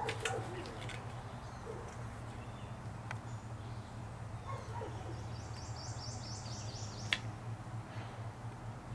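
A bird sings a quick run of high repeated notes for about two seconds in the second half, over a steady low hum, with a sharp click just after the song ends.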